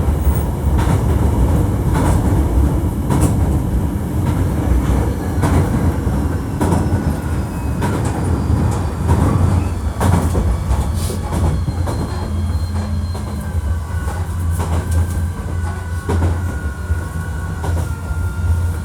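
Hankyu 1300 series electric train running at speed: a steady low rumble with wheels clicking over rail joints. In the second half a thin steady whine from the Toyo IGBT VVVF traction equipment joins in.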